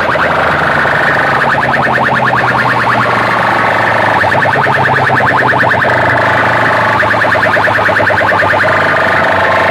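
Competition DJ sound systems blasting a loud electronic track through large loudspeakers: a rapidly pulsing, alarm-like tone over a steady low bass drone.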